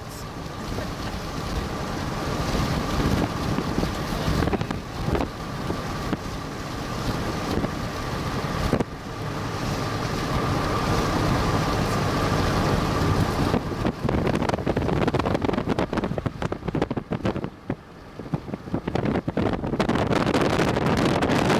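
Wind gusting over the microphone, with a steady high whine for a little over half the time before it drops out.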